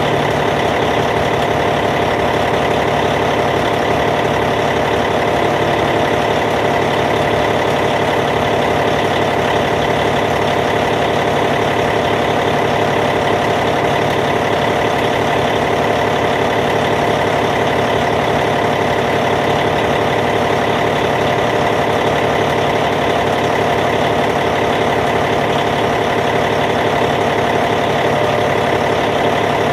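Caterpillar C15 inline-six diesel in a Cat D8T dozer idling steadily at an even, unchanging speed.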